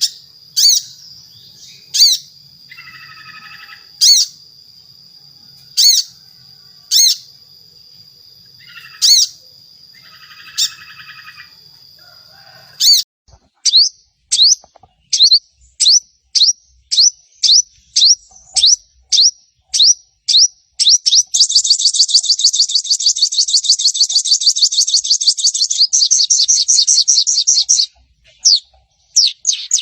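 A sogon sunbird calling: sharp single chip notes a second or two apart over a steady high tone, then quickening chips about halfway through that run into a fast, continuous chattering trill, the 'shot' and chatter calls used to lure other sogon birds into song.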